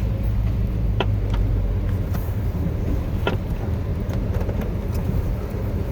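Chevrolet plow truck's 8.1-litre Vortec big-block gas V8 running steadily, a low drone heard from inside the cab, with a few faint clicks.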